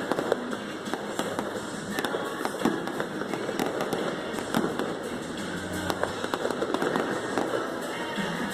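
Aerial fireworks display bursting, a rapid, continuous run of bangs and crackles.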